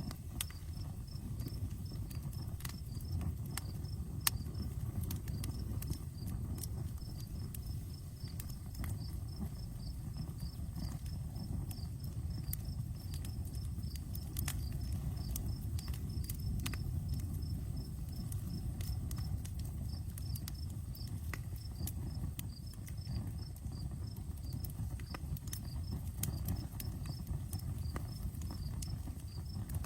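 Outdoor campfire crackling with scattered sharp pops over a low steady rumble, while crickets chirp in a steady rhythm.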